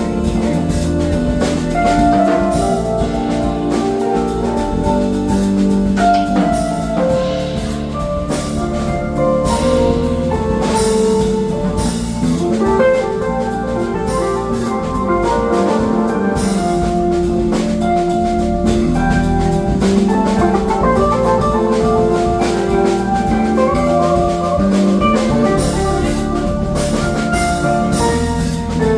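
Funk band playing live: a drum kit keeping a steady beat under held, stepping chords.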